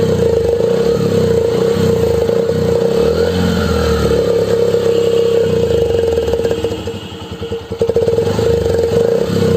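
Motorcycle engine running loud with a steady whine, the revs dipping briefly and picking up again near the end.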